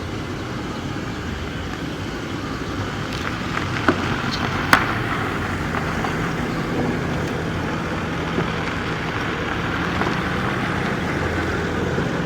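Steady engine noise, with two sharp knocks about four and five seconds in.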